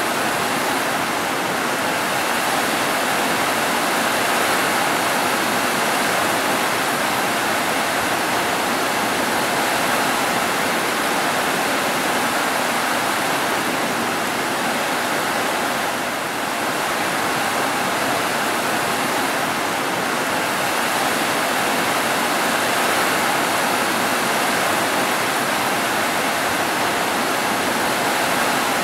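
Rain falling steadily on roofs, a dense, even hiss that dips slightly about halfway through.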